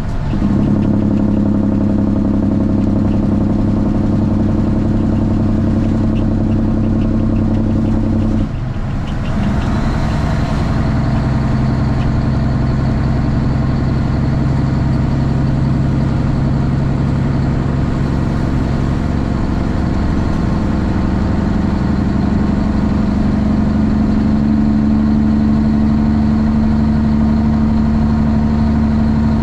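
Straight-piped Cummins ISX inline-six diesel in a Kenworth T800 truck running steadily. About eight and a half seconds in the sound dips briefly and the engine note changes pitch, then carries on.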